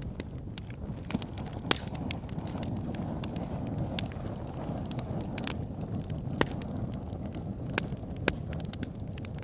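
Wood fire burning in a fireplace: a steady low rumble of flames with irregular sharp crackles and pops from the logs, a few louder pops standing out.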